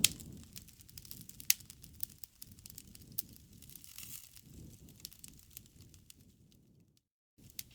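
Campfire crackling: scattered sharp pops and snaps over a low, soft rumble of burning wood, with a brief dropout to silence near the end.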